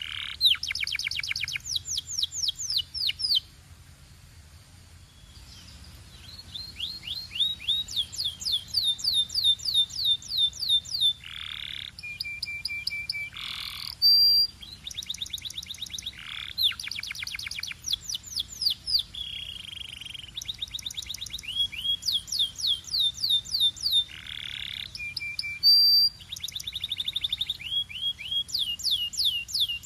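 Domestic canary singing: fast rolling trills of rapidly repeated high notes, phrase after phrase, each phrase switching to a new note type, with a brief pause a few seconds in.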